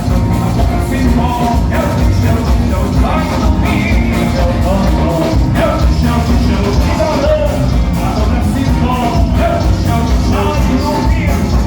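Loud live music from a carnival band: a singer's voice over a heavy, steady low-end beat.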